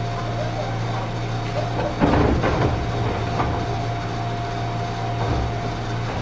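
Cabin sound inside a Gakunan Railway 7000-series electric railcar: a steady hum with the air conditioning running. A brief loud clatter about two seconds in.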